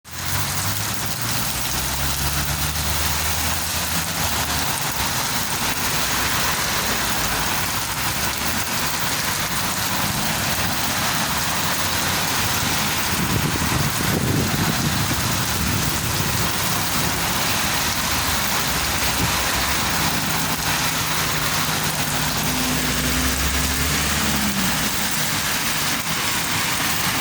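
Heavy rain falling steadily, a dense even hiss. A low rumble sits under it near the start and again late on, with a brief low swell about halfway through.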